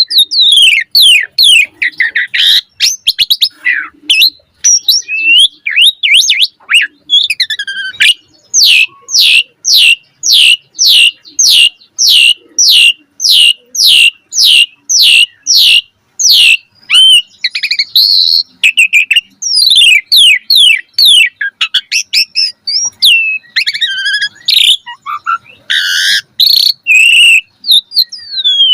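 Asian pied starling singing loudly and without pause, a varied run of whistles and chattering phrases. Through the middle it repeats a quick downslurred whistle over and over, about two or three a second.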